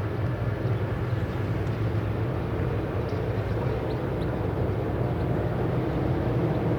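Railway locomotive running steadily close by: a loud, even, low drone with no change in pitch.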